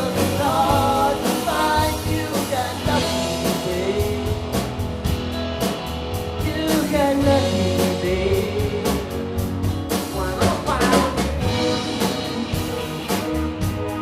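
Live rock band playing between sung lines: electric guitar, bass and drum kit, with a voice and gliding guitar or vocal lines over a steady beat.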